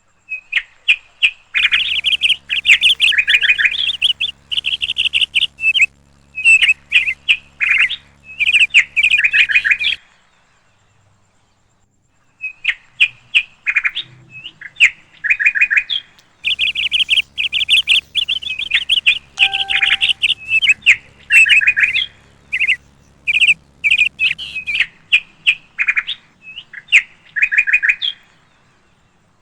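Small bird chirping loudly in quick runs of sharp, high chirps, with a pause of about two seconds partway through. A faint low hum sits under some of the runs.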